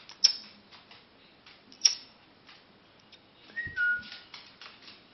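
Eclectus parrot giving two short, sharp squawks, then a two-note whistle that steps down in pitch about three and a half seconds in, with a dull thump alongside.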